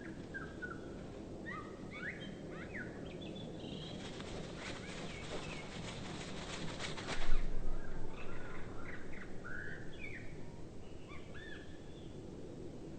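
Birds calling with short chirps and gliding whistles. Midway, a few seconds of rapid wing flapping ends in a sharp louder knock, then the calls go on.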